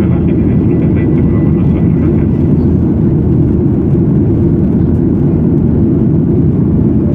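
Steady, loud cabin roar inside a Boeing 737-800 in flight: rushing air and the drone of its CFM56-7B turbofan engines.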